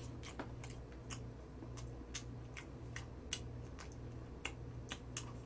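Crisp clicks and crunches of someone chewing crispy fried chicken close to the microphone, irregular, about two a second.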